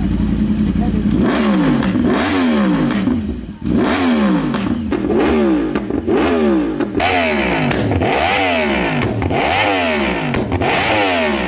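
Yamaha R1 crossplane inline-four through an Austin Racing aftermarket exhaust, idling briefly and then revved in repeated throttle blips, about one a second, each rising and falling in pitch.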